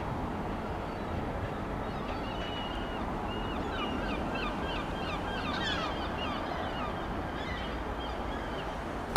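Trains rumbling slowly over the points on the approach to the station, with a run of short, high chirps or squeaks through the middle.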